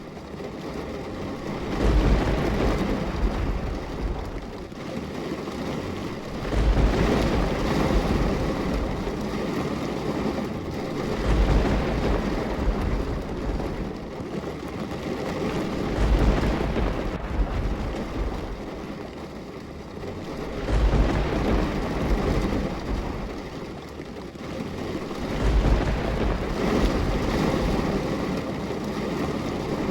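Steady rain, with low thunder-like rumbles swelling at even intervals of about four to five seconds.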